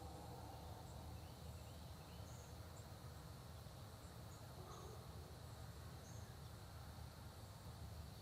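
Faint early-morning countryside ambience: a steady high insect drone with scattered short, high bird chirps and calls, over a low steady rumble.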